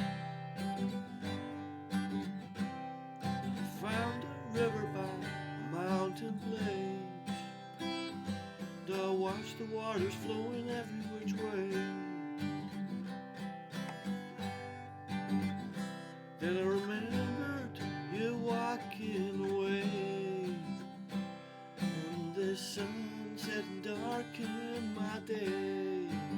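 Acoustic guitar strumming chords, with a melody line above it that bends and glides in pitch.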